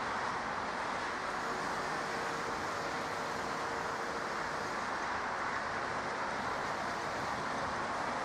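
Steady jet engine roar of aircraft at the airport. A faint steady whine comes in about a second and a half in and fades out near the five-second mark.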